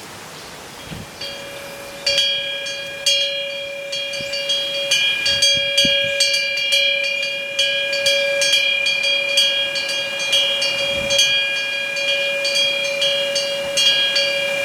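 Metal wind chime ringing, struck again and again in quick irregular succession so that its clear tones keep sounding and overlap. It starts faintly about a second in and gets louder from about two seconds in.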